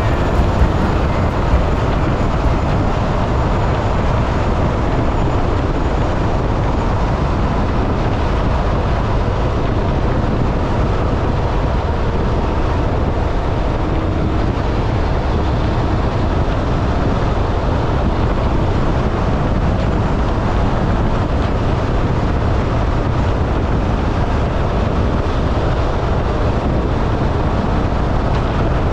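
Steady wind rush and engine and road noise from a Honda NC750X motorcycle riding at a constant pace, with the sound heaviest in the low end and barely changing throughout.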